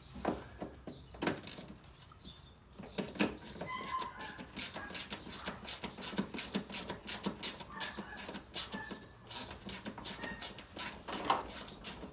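Ratchet wrench clicking in quick runs as a 10 mm fastener is worked loose, with a few louder metallic knocks of tools on the car.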